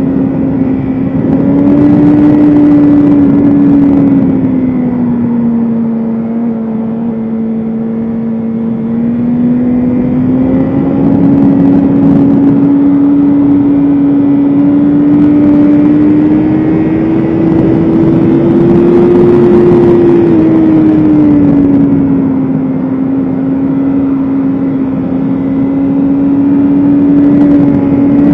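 BMW S1000RR inline-four sportbike engine running hard at high revs, its pitch sinking and climbing slowly as the throttle is rolled off and back on through corners.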